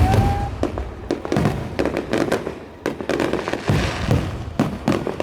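New Year's fireworks and firecrackers going off in quick, overlapping succession: sharp bangs, low booms and crackling, with a brief whistle right at the start.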